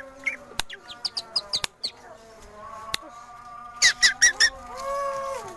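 Long-tailed shrike (cendet) singing a varied, busy song of quick chirps and short whistled notes mixed with sharp clicks. About four seconds in come four loud, high, rapid notes, followed by a held whistle that rises and falls.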